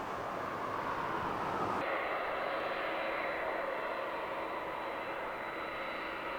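Jet airliner engines running with a steady whine. About two seconds in the sound changes abruptly at an edit and becomes duller.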